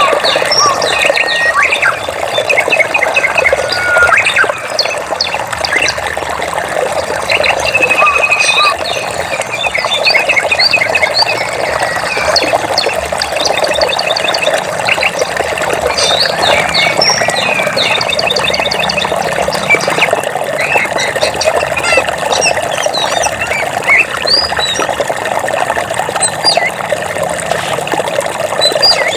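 Many birds chirping and trilling, with short, rapid repeated notes throughout, over a steady rush of flowing water.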